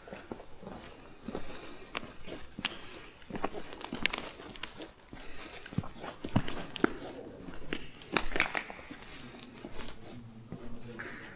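Footsteps crunching over loose slate rubble, in a run of irregular clicks, crunches and scrapes.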